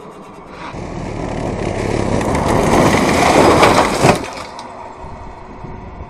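Rally car at speed coming closer, its engine and tyre noise building over about three seconds with rattling clicks, then cutting off sharply about four seconds in.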